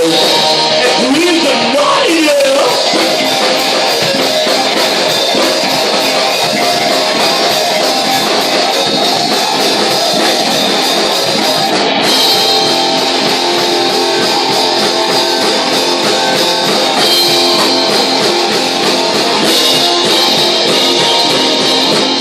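Live rock covers band playing loud and steady, with electric guitar to the fore and a voice singing in the first few seconds.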